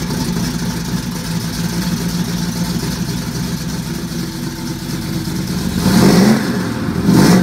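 Shelby GT500 Mustang's V8 engine idling steadily, revved briefly twice near the end.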